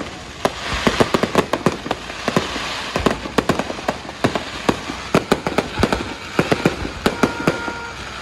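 Fireworks and firecrackers going off: a dense, irregular string of sharp bangs and crackles over a steady hiss, with a brief whistle about seven seconds in.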